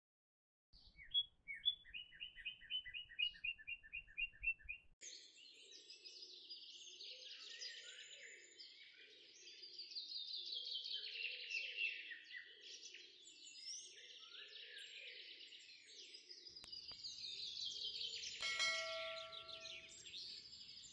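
Birds chirping and singing: first a quick run of evenly spaced chirps, then dense overlapping song. Near the end comes a click and a short bell-like chime.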